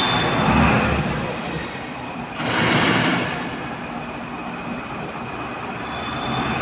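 Wood-pellet-fired aluminium melting furnace running: a steady rushing of the air blower and flame that swells twice, about half a second in and again near three seconds in.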